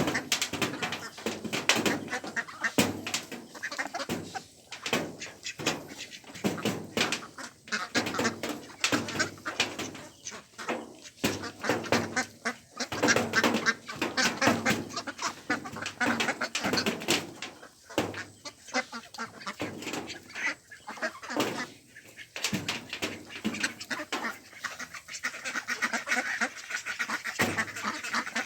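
A flock of ducks quacking and calling almost without pause, many calls overlapping.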